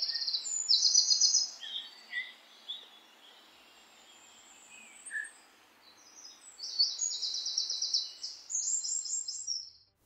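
Songbirds chirping in high, rapid trills, loudest in the first second and a half and again from about six and a half seconds in, with only faint calls in between.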